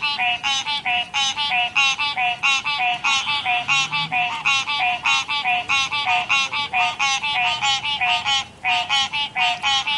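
Tree frogs calling in a chorus: short, rapidly repeated pitched calls, about three or four a second and overlapping, each ending in a falling note, with a brief lull about eight and a half seconds in.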